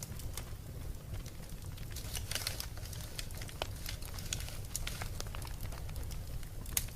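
Wood fire crackling in a fireplace: irregular snaps and pops over a steady low rumble, with one sharper pop near the end.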